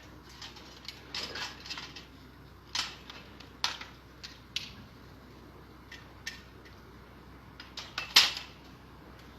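Hand pruning shears snipping thuja twigs: a string of irregular sharp metallic snips, the loudest about eight seconds in.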